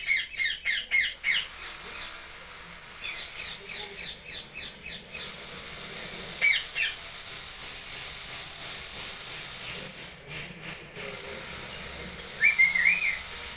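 Parrot squawking in quick runs of short, high calls, several runs spread through the seconds, with a short wavering note near the end.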